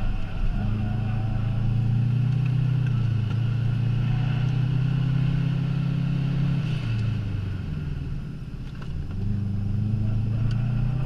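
Subaru Impreza's flat-four boxer engine heard from inside the cabin, running hard at high revs under acceleration. About seven seconds in the revs fall and it quietens briefly, then the engine note climbs again as it pulls back up.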